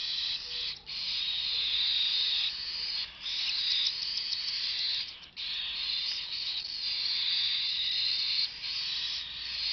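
Cockatiel chick giving its raspy, high hissing food-begging call while being fed by syringe, held steadily with short breaks three times.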